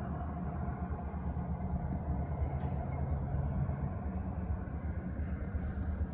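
Steady low rumble of a running vehicle, with no sudden events.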